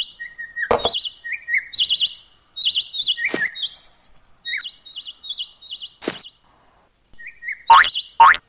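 Birds chirping in short, high warbling calls, with three sharp knocks spread through. Near the end a quick run of springy boing sounds starts.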